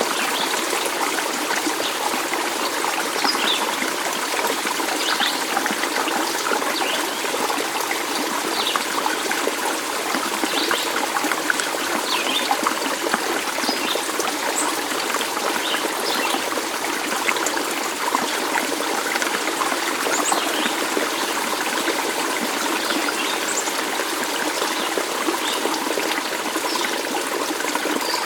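Running water of a stream, trickling and babbling steadily, with faint short high chirps now and then.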